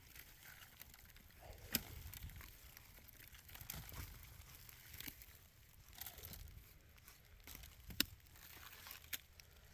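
Irregular crunching and rustling of wood and brush being handled, with two sharp cracks, one about two seconds in and one near the end.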